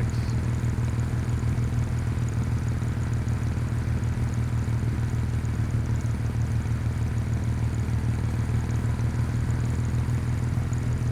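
Kawasaki W800's air-cooled parallel-twin engine running steadily at constant revs, with no revving or shifting.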